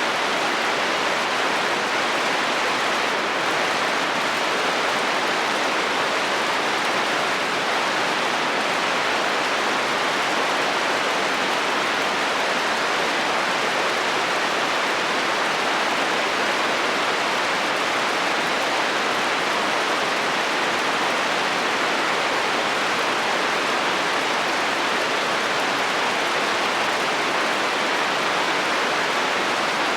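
Heavy rain falling steadily on a metal roof, an even unbroken patter with no thunder.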